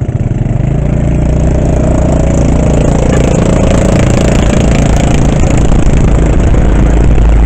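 A vehicle pulling away and picking up speed: the engine note rises over a loud, steady rush of road and wind noise.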